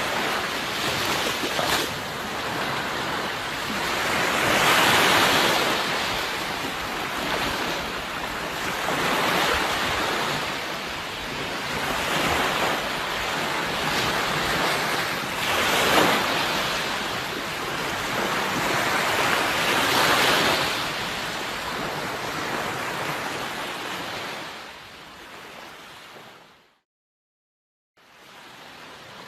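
Sea waves breaking on a shore, surging every few seconds. Near the end the sound fades out, cuts to silence for about a second, then starts again.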